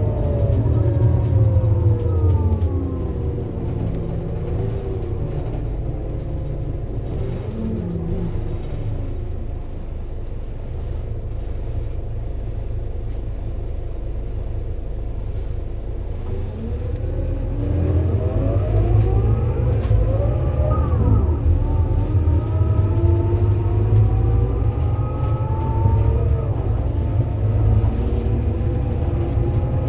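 Scania Lahti Scala K230UB bus with its five-cylinder diesel and ZF Ecomat automatic gearbox, slowing down and then running quietly for a while. About halfway through it pulls away, the engine note rising, dropping back with an upshift, and rising again.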